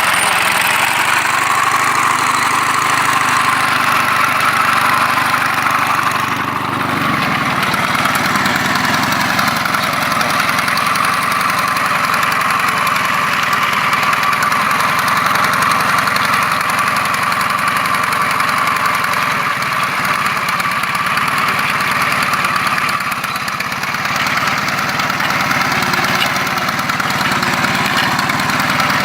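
Homemade farm machine powered by a motorcycle engine, running steadily. Its low engine note shifts about seven seconds in.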